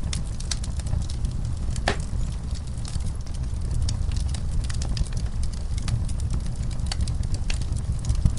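Wood fire burning in a fireplace: a steady low rumble of the flames with irregular sharp crackles and pops from the burning logs, one louder pop about two seconds in.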